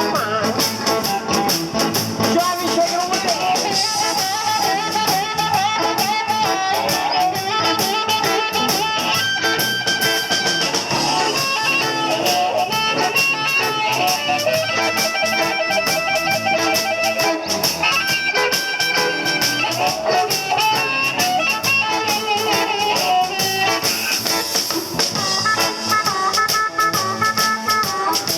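A band playing an instrumental passage of a blues-style song, with no singing.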